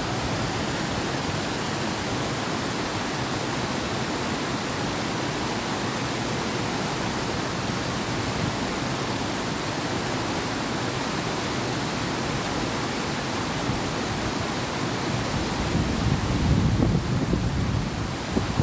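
Steady rushing of a flowing river. Near the end, wind gusts come in as a low rumble on the microphone.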